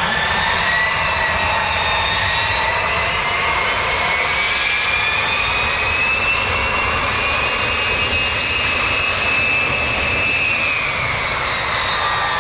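Jet airliner's engines running close by: a loud, steady rush under a high whine that slowly rises in pitch and then drops again near the end.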